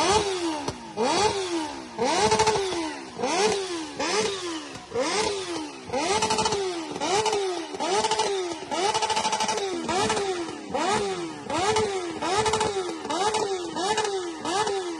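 Superbike engine revved in quick throttle blips, about two a second. Each blip rises in pitch and falls back, over and over.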